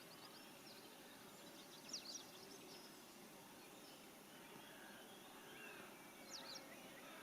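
Quiet outdoor ambience with a steady faint hiss, where small birds chirp in short quick bursts about two seconds in and again near the end, with fainter calls in between.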